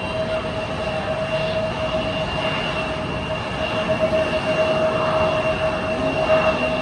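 Jet airliner engines running, a steady whine with two held tones over a broad rushing noise.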